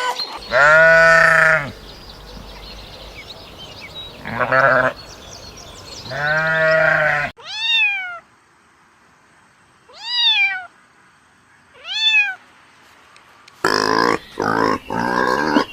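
Three low animal bleats, then a cat meowing three times, a couple of seconds apart, each meow rising and falling in pitch. Near the end comes a run of rapid, pig-like grunting.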